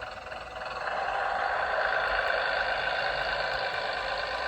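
Sound-fitted Bachmann Class 101 DMU model playing its diesel engine sound through its small onboard speaker, swelling about a second in as the throttle is opened and then running steadily under power.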